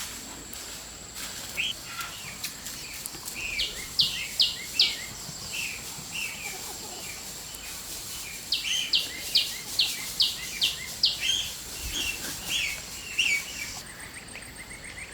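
Birds calling: two runs of sharp, high chirps, the second a quick series of about seven, with softer chirps in between. A steady high-pitched whine runs underneath and changes to a fast pulsing one near the end.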